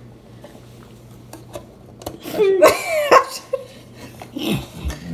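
A person's voice making brief non-word sounds, loudest about two to three seconds in, with scattered light clicks and knocks.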